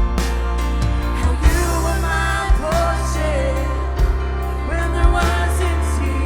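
Live worship band music from drums, bass, synth, piano and electric guitar, with a melodic line weaving over sustained chords and drum hits about once a second.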